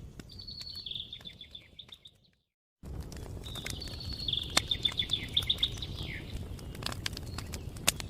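Campfire crackling with scattered sharp pops, while a songbird sings two fast trilled phrases. The sound cuts out completely for about half a second a little over two seconds in.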